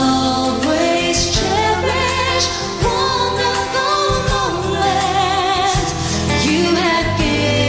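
A woman singing a ballad live over a band, with long gliding notes and vibrato above a steady bass and keyboard backing.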